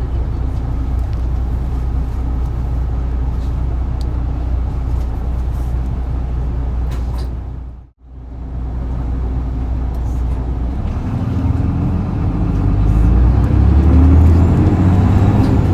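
Turbocharged diesel engine of an Isuzu Erga city bus, heard inside the cabin at the rear: it runs steadily, the sound fades out and back in briefly about halfway, then the engine pulls harder and grows louder as the bus accelerates near the end.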